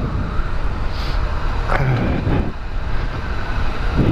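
Kawasaki ZX-6R sport bike's inline-four engine running, with steady road and wind noise.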